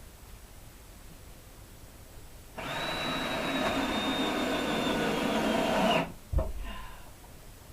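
A cordless drill runs at full speed for about three seconds with a steady high whine, then stops suddenly. A single dull thump follows.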